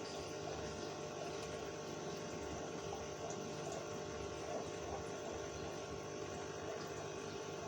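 Aquarium pump running steadily with a hum, and water bubbling and trickling in the tank.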